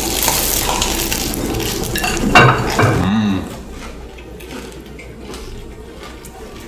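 Loud, exaggerated crunching of sandwiches being bitten and chewed for about the first three and a half seconds, with a short low hum from one of the eaters near the end of it. Then it is quieter, with light clinks of plates.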